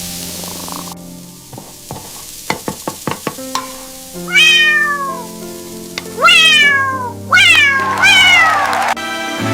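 A cat meowing four times, each meow a loud falling cry, over soft background music, after a quick run of about half a dozen clicks.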